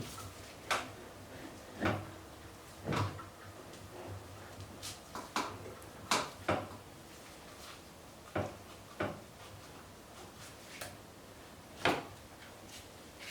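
Irregular knocks and clinks of hand tools on metal, about a dozen sharp taps with uneven gaps, as a worn shaft is worked out of a garden tractor's gear case.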